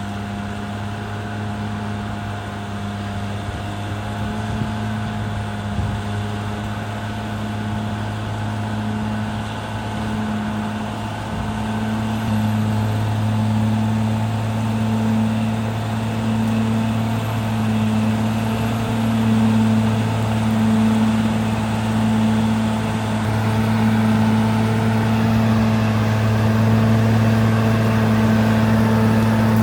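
CAT D6R XL bulldozer's diesel engine running steadily with a deep, even hum, growing gradually louder.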